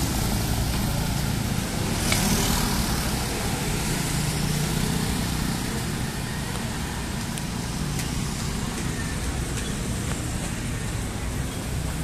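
Road traffic noise: a steady rumble of passing vehicles on a city street.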